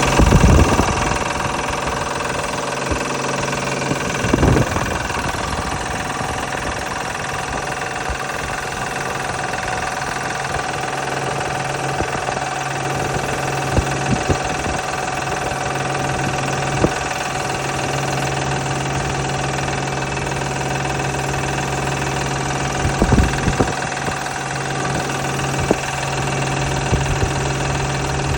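Honda Pilot's V6 engine idling with a steady hum, broken every few seconds by irregular sharp rattling knocks. The uploader puts the noise down to a bad belt tensioner.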